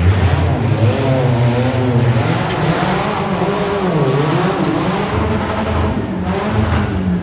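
Monster truck engine revving hard during a run, its pitch rising and falling again and again as the throttle is worked.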